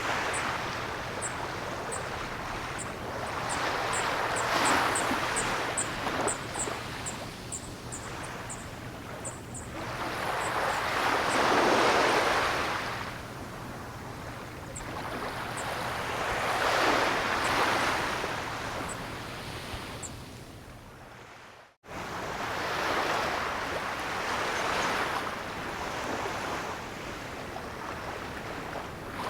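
Ocean waves breaking and washing in, the surf swelling and falling back about every six seconds. Faint high ticks come and go over the first ten seconds, and about three-quarters of the way through the sound cuts out for an instant, as at an edit.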